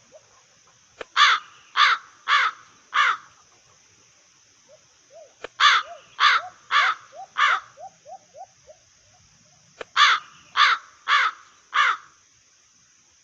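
A crow cawing in three bursts of four harsh caws, a few seconds apart. Faint quick chirps run underneath, and a steady high-pitched buzz carries on throughout.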